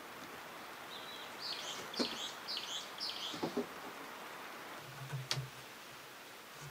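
A small songbird sings a quick run of about four chirpy phrases, with a few sharp knocks of wood being handled during and after it.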